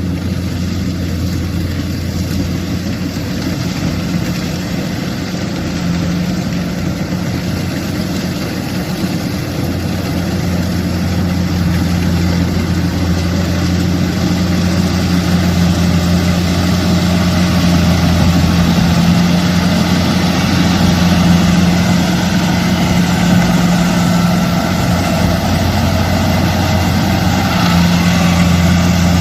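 Kubota rice combine harvester's diesel engine running steadily with a low, even hum, growing somewhat louder after about ten seconds.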